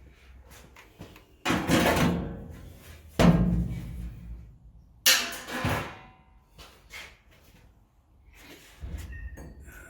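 Three loud bangs about two seconds apart, each ringing off briefly, followed by a few softer knocks.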